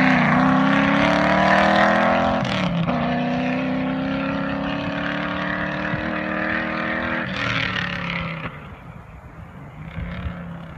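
TVR Griffith 500's 5.0-litre Rover V8 accelerating hard, its note climbing in pitch. It shifts up about two and a half seconds in and pulls again, then backs off about eight seconds in and the sound drops away.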